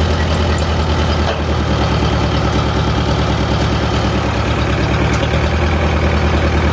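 A heavy engine running steadily at constant speed. A fast, high ticking of about four or five a second rides over it for the first second, then stops.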